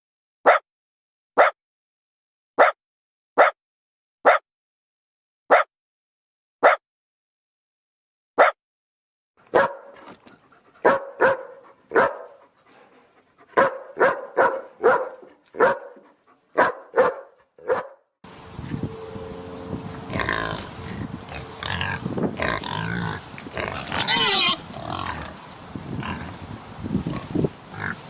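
A dog barking: single sharp barks about a second apart, then a quicker, irregular run of barks. About two-thirds of the way through it gives way to a group of pigs squealing and grunting together, loudest near the end.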